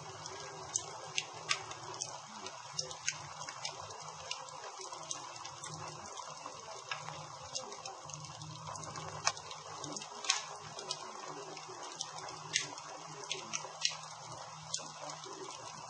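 Campfire burning, with a steady hiss and irregular sharp crackles and pops of the wood.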